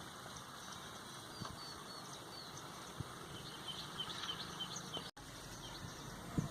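Faint outdoor background with small birds chirping: short high chirps, coming most thickly about four to five seconds in. The sound cuts out for an instant just after five seconds.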